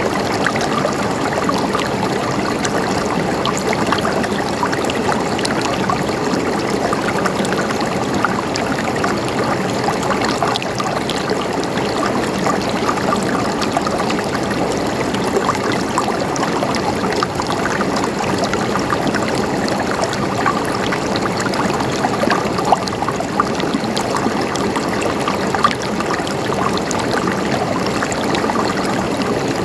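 Flowing water gurgling and trickling steadily, an even rush with many fine splashes.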